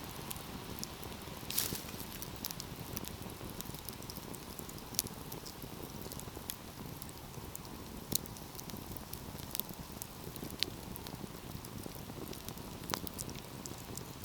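Wood fire burning with a steady hiss and scattered sharp crackles and pops at irregular intervals. The loudest pop comes about a second and a half in.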